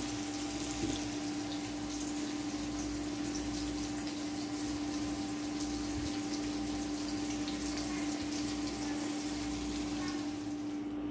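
Chopped onions sizzling and crackling as they fry in oil in a pan, over a steady low hum. The sizzle falls away near the end.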